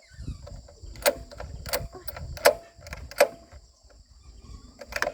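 Metal being struck during repair work: four sharp strikes at an even pace, roughly one and a half per second, each with a short metallic ring, then one more near the end.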